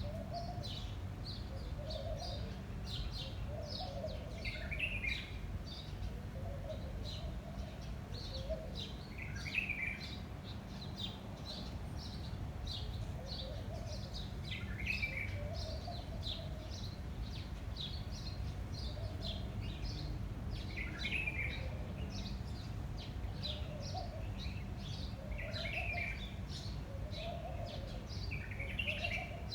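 Garden birdsong: many small birds chirping busily throughout, with a louder falling call about every five seconds and a lower repeated phrase underneath, over a steady low rumble of wind.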